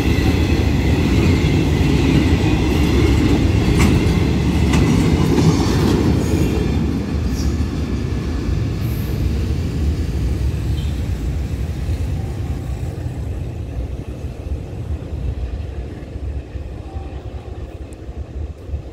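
Container wagons of a freight train rolling past with a heavy rumble and a high wheel squeal on a curve. The squeal dies out about six or seven seconds in, and the rumble then fades steadily as the end of the train draws away.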